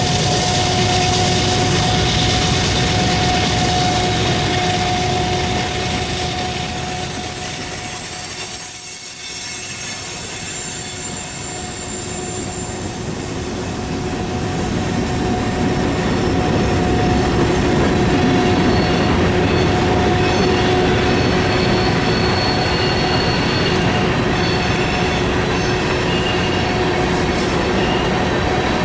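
Train cars rolling past with their steel wheels squealing steadily against the rails, over a continuous rumble of the train, easing briefly about a third of the way in.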